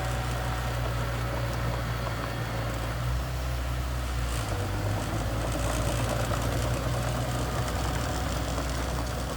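Mini bulldozer's diesel engine running steadily under load, a constant low engine note with a light rattle over it.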